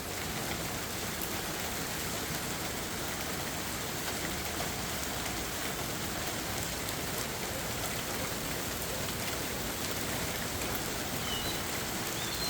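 Steady monsoon rain falling and pattering on surfaces. A few faint, short, high chirps come near the end.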